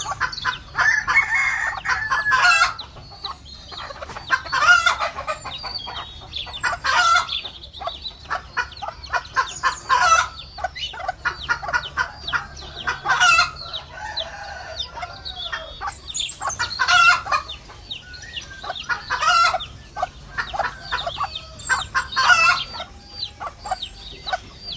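Japanese quail calling: a short, loud, harsh call repeats every two to three seconds, with softer chirps and clucks between.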